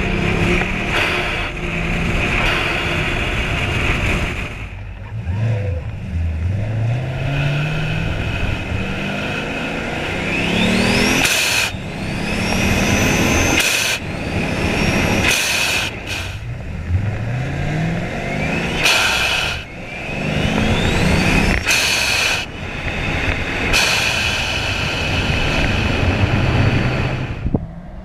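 Turbocharged 2010 Chevrolet Camaro SS V8 with a Turbonetics turbo kit accelerating in repeated pulls: the engine note rises with the revs alongside a climbing turbo spool whistle. Each time the throttle closes, the blow-off valve vents with a short loud hiss, several times over.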